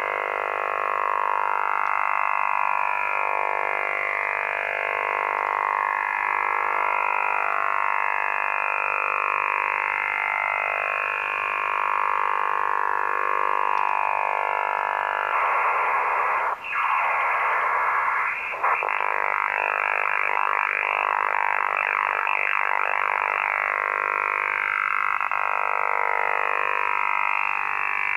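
Strange, very strong shortwave radio signal around 8580–8610 kHz coming through a receiver's speaker: a dense band of steady tones crossed by repeated falling sweeps. About halfway through it changes to a harsher noise-like rush with a brief dropout, then returns to the sweeping tones near the end.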